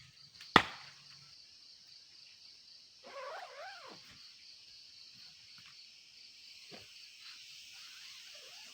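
A sharp click just after the start, then one wavering animal call lasting about a second, three seconds in, over a faint steady high-pitched drone.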